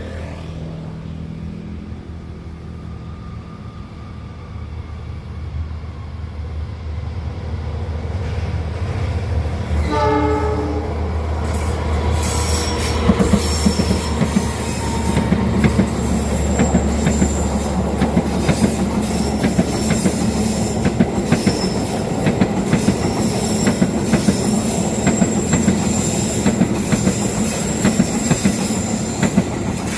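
A train approaching with its locomotive engine rumbling, then a short horn blast about ten seconds in. The train then passes close by, its wheels clacking over rail joints and squealing on the curve.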